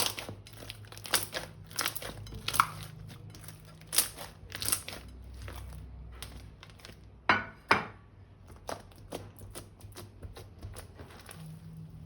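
Irregular crinkling and crackling from slime-making materials being handled, with two louder crackles close together about seven seconds in.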